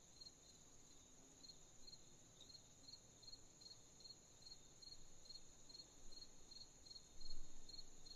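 Night insects: crickets chirping in an even rhythm, about two or three chirps a second, over a steady high insect trill. A brief low rumble about seven seconds in.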